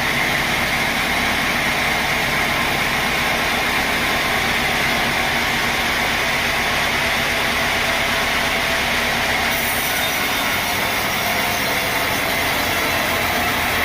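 Sawmill saw running steadily: a loud, even machine noise with a high whine on top that does not start, stop or change.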